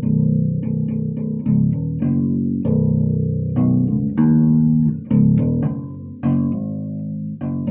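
Six-string fretless bass guitar played solo: a line of plucked notes, some short and some held ringing for about a second.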